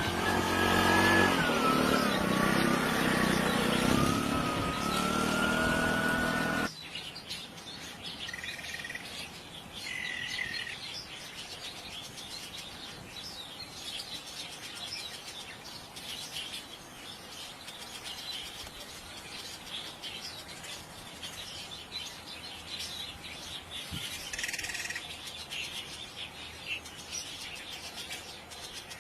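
Shrike calls: a loud, wavering whistled note over heavy background noise, cut off abruptly about seven seconds in, followed by quieter, scattered short chirps.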